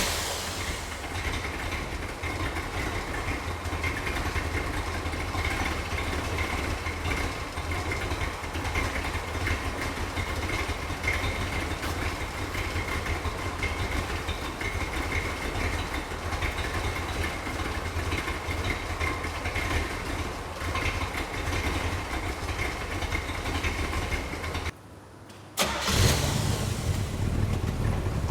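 A 1963 Corvette's 327 V8 idles steadily with a deep exhaust rumble. About 25 seconds in it breaks off for a second, then the engine is started again with a loud catch and settles back into idle.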